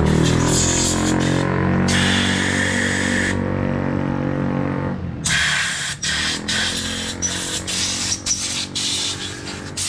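A motorcycle engine running with its pitch slowly falling, dying away about five seconds in, with a hiss partway through. Then a string of short, sharp hissing blasts that sound like compressed air.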